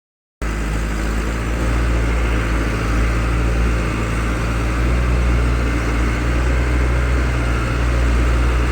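Pickup truck engine running steadily with a low, even drone.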